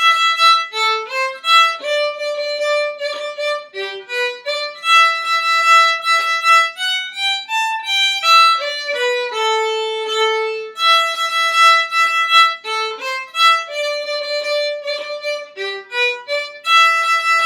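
Solo violin playing a single-line melodic exercise, mixing held notes with quicker runs; this is the last and fastest line of the exercise.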